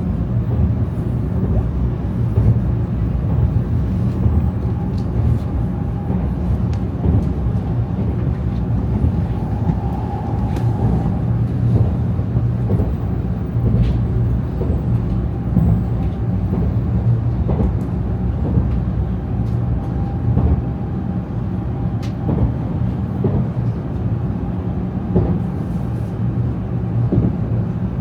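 Shinkansen bullet train running, heard from inside the carriage: a steady low rumble, with a faint whine that swells about ten seconds in and scattered light clicks.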